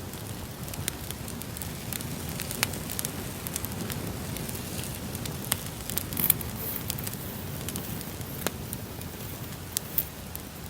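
Recorded campfire crackling: irregular sharp pops and snaps over a steady low rush of burning wood.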